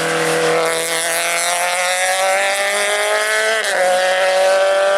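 Race car engine accelerating hard, its pitch climbing steadily, then dropping sharply at an upshift about three and a half seconds in and climbing again.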